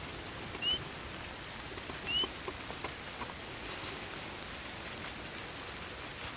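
Steady rain falling, with scattered small drips. An animal gives a short rising chirp twice, about a second and a half apart, in the first half.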